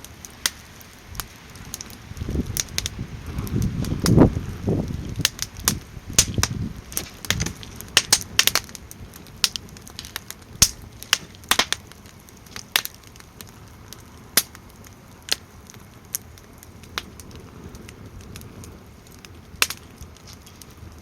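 Wood fire in a small campfire stand crackling, with sharp irregular pops about once or twice a second. Wind gusts rumble on the microphone during the first several seconds.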